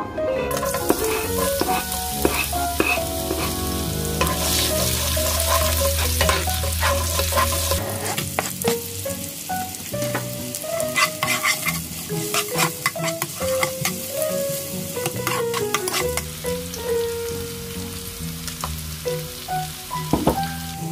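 Sliced garlic and then shallots sizzling in hot cooking oil in a wok, the frying strongest in the first several seconds and then settling. A metal spoon stirs and scrapes against the pan with sharp clicks.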